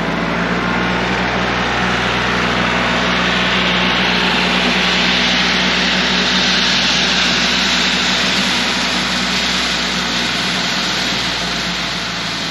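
Kioti CK3510 compact tractor's diesel engine running steadily while it back-drags a gravel driveway with a land plane, with a rushing gravel-scraping hiss that swells through the middle.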